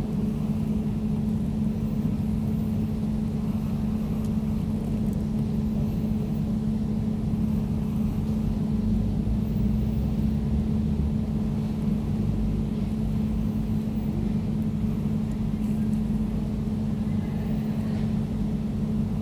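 Air conditioner running: an even, steady low hum with a fainter higher note above it, unchanging throughout.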